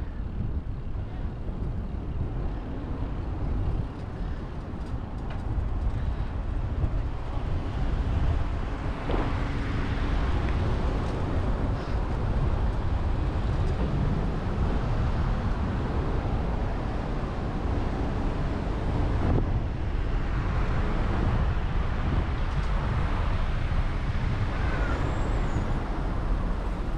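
Steady road traffic noise from passing cars, with low wind rumble on the microphone of a moving bicycle rider.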